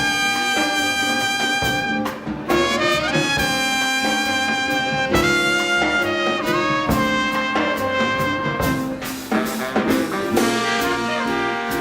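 Live swing band playing, with brass and saxophone horns holding notes and chords that change every second or two.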